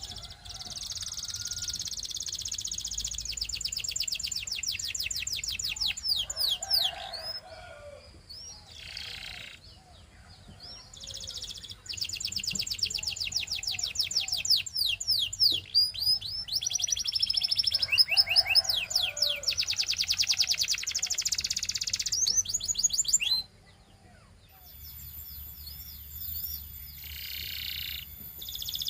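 A domestic canary singing: long, rapid trills of quickly repeated high notes alternating with runs of fast sweeping notes, broken by short pauses. The song cuts off abruptly about 23 seconds in, and quieter singing follows near the end.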